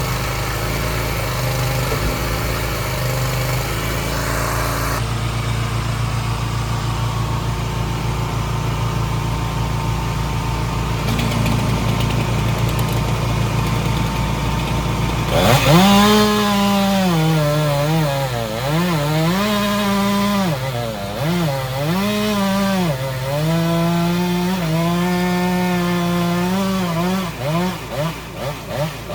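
A machine engine runs steadily. About halfway through, a chainsaw starts running at high revs, its pitch dipping again and again as it bogs down in the cut, with quick throttle blips near the end.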